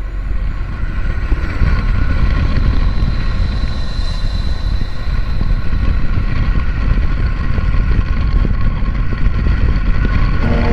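Wind rushing over an action camera's microphone on a moving Honda ADV160 scooter, a steady loud rumble with road and engine noise beneath it.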